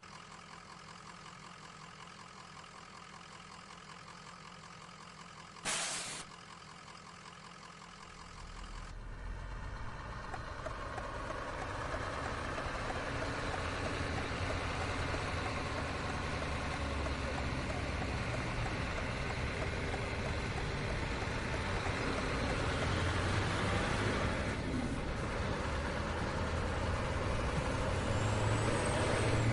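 Scania truck idling with a steady hum, a short sharp hiss of the air brakes about six seconds in, then the engine and running noise grow louder as the truck moves off and picks up speed.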